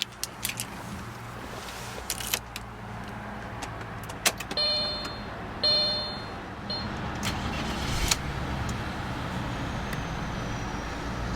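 The Audi Allroad's 2.7-litre twin-turbo V6 idles steadily under a run of sharp clicks and knocks. Near the middle come two short chime tones about a second apart, and about eight seconds in there is a heavy thump.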